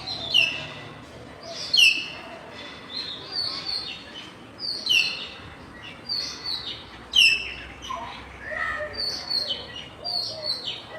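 Common hill mynahs calling: a steady string of short, loud whistled calls, many sliding downward in pitch, coming one or two a second with some overlapping.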